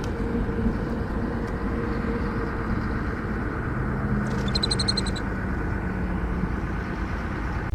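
A steady low rumble with a faint hum, like a running vehicle engine, with a brief run of rapid high chirps a little past the middle.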